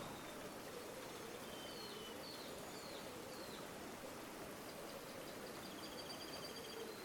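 River water flowing steadily, with a few small bird chirps over it and, near the end, a quick high trill of repeated notes.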